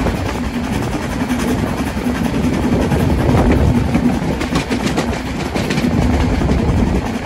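Narrow-gauge train running along the rails: a steady low rumble with a held hum and faint rail clicks in the middle.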